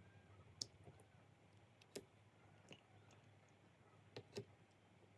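Near silence with a handful of sharp, separate clicks, the loudest about two seconds in and two close together near the end.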